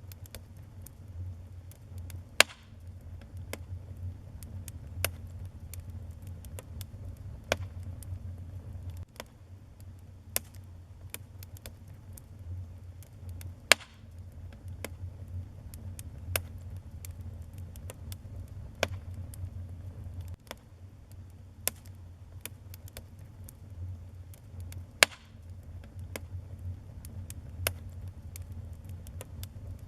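Wood fire burning in a fireplace, crackling with irregular sharp pops over a low steady rumble; a few pops stand out louder, about two seconds in, near the middle and near the end.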